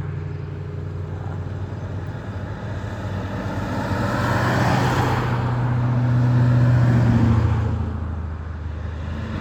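Classic cars driving past on the road, their engine hum steady and swelling as one goes by about halfway through, with the rush of tyres on pavement.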